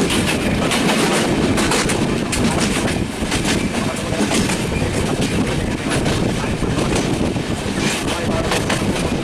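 Passenger train running over a steel railway bridge: wheels clattering over the rail joints in a steady, loud rumble, with frequent sharp clicks.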